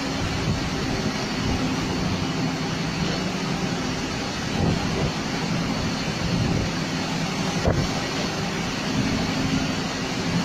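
A boat's engine running with a steady drone under the rushing noise of storm wind, rain and waves; a single sharp knock comes near the end.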